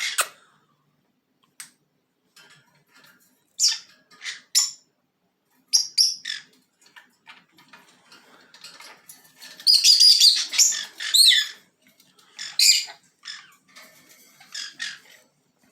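Small pet parrots calling: scattered short, high squawks and chirps, with a dense run of chattering calls about ten seconds in.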